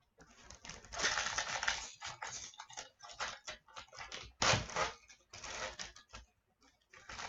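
Hockey trading cards and their packaging being handled, giving irregular bursts of rustling and crinkling with a few short clicks.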